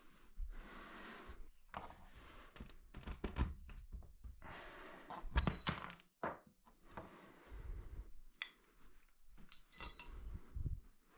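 Wooden boards and hardware of a folding wall-mounted train table being handled: scattered knocks and thunks with rustling, and bright metallic clinks, one about five seconds in and another near the end.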